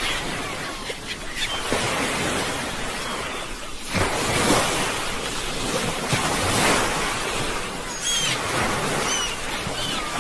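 Sea waves breaking and washing on the shore, a steady surf that swells about four seconds in and again at six and a half. A few short high chirps come through near the end.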